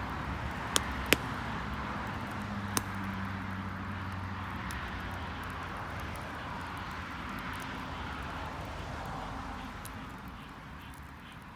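Garden wood bonfire crackling, with three sharp pops in the first few seconds and fainter ticks after. Behind it a steady rushing noise fades near the end, along with a low hum.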